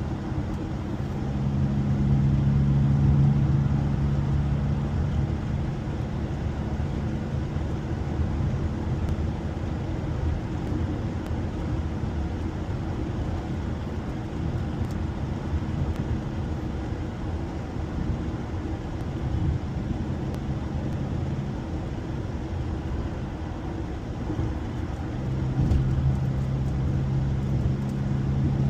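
Honda car driving, with engine and road noise. A low engine drone swells in about a second in, fades after several seconds, and comes back near the end over a steady rumble of tyres and road.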